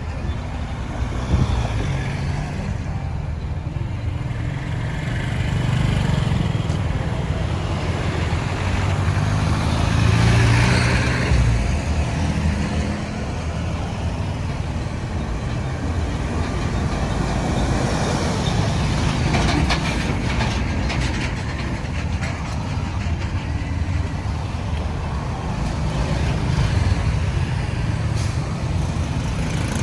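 Road traffic: engines and tyres of trucks, cars and motorbikes going by in a continuous rumble, with one vehicle passing louder about ten seconds in.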